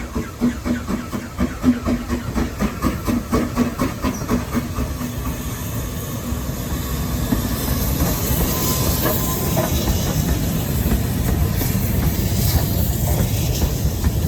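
Steam locomotive working, its exhaust beating about three times a second and fading over the first few seconds. Then comes a steady, rising train rumble with hiss of steam.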